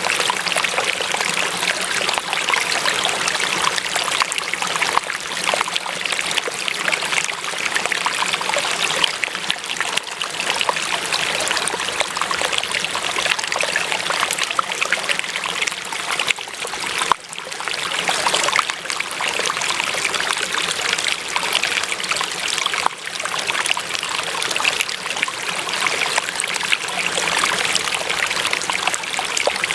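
Water of a small stream trickling and splashing in a steady flow, with one brief drop in level a little past halfway.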